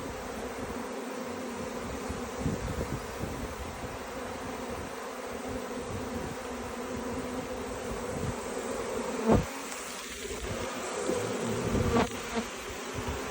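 A mass of honeybees buzzing steadily in a low, even hum, with two sharp knocks near the end.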